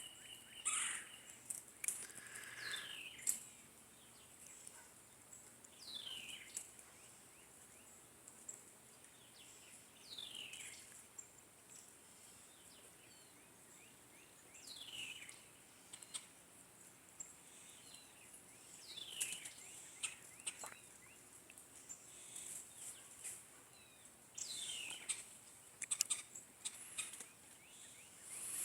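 A bird calling outdoors: single short calls that slide downward in pitch, repeated about every four seconds, with scattered faint clicks and a steady high hiss behind them.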